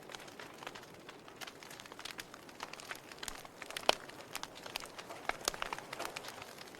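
Wood fire burning in a fireplace: logs crackling and popping at irregular intervals over a soft steady hiss, with one sharper pop about four seconds in.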